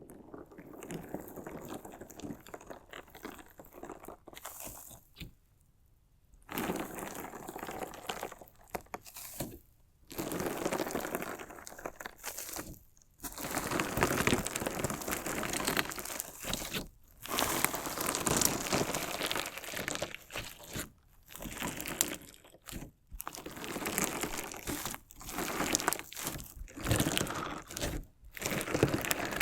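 Slime mixed with small decorative stones being squeezed and worked by hand, giving crunchy, grinding crackles in stretches of a second or two with short pauses between. It is quieter for the first few seconds and louder from about six seconds in.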